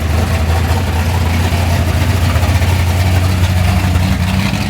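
Muscle car engine idling steadily at a loud, low pitch.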